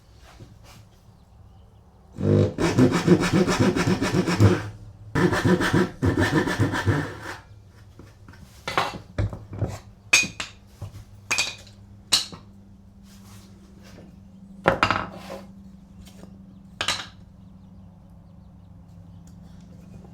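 A hand tool working wood in two bouts of quick scraping strokes, each about two seconds long. These are followed by scattered light knocks and clicks.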